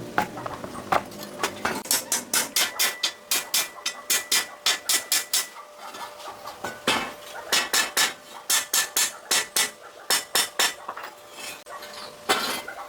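Rapid sharp metallic tapping or hammering, about four strikes a second, in two runs of a few seconds each, with a louder single knock near the end.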